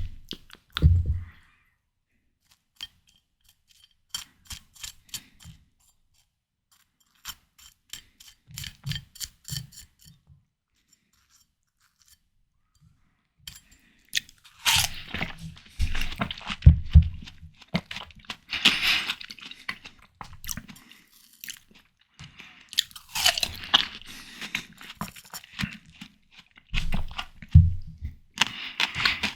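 Close-miked eating of ripe, juicy watermelon: sparse wet mouth clicks and soft chewing at first, then from about halfway several bursts of crunching bites and chewing.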